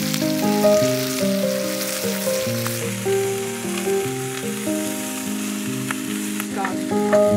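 Food sizzling in a hot cast-iron skillet on a portable gas stove, the frying hiss strongest in the first few seconds, over background music.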